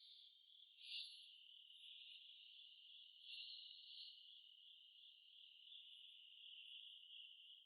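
Faint, steady high chirring of insects, with a small swell about a second in.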